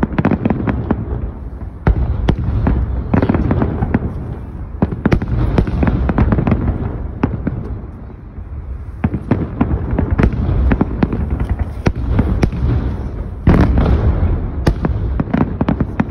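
A large fireworks display: aerial shells bursting in quick succession, a dense run of booms and crackles over a constant low rumble. The barrage eases about eight seconds in, then builds again, with a sudden loud bang near fourteen seconds.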